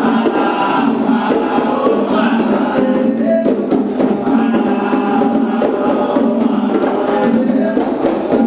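A group of voices singing a Candomblé chant together, dense and steady in level.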